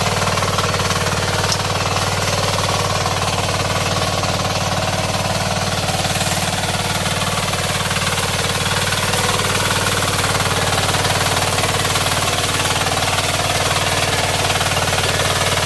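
KisanKraft KK-IC-406D power weeder's 9 HP diesel engine running steadily with a rapid, even knocking beat.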